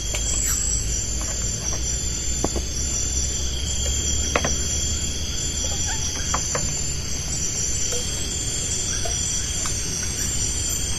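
Steady high-pitched chorus of forest insects over a low background rumble, with scattered light clicks and knocks.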